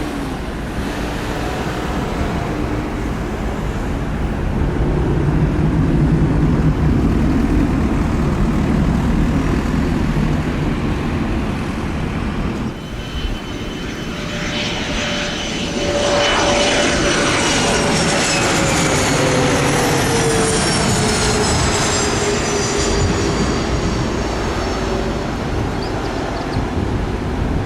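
Jet aircraft passing close by, its engines running loud with a deep rumble, then from about halfway a strong whine and high engine tones that slide steadily down in pitch as it goes past.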